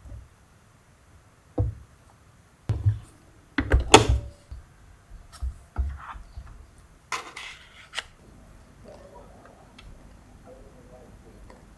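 A series of separate knocks and thuds, with a few sharp clicks, of objects being handled and set down in a small room. It goes quieter for the last few seconds.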